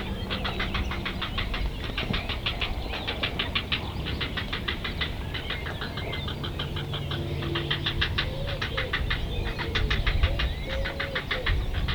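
A bird calling in a fast, steady run of high pips, about ten a second, over a low rumble.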